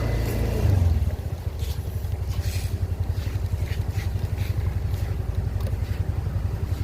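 Motorbike engine running with a low, rapidly pulsing rumble that swells about a second in.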